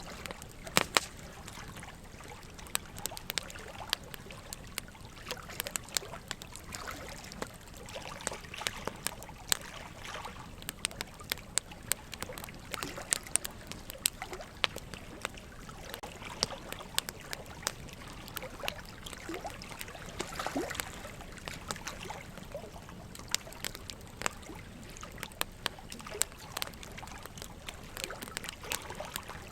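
Wood fire crackling, with frequent sharp irregular pops and snaps, over a steady trickle of running water.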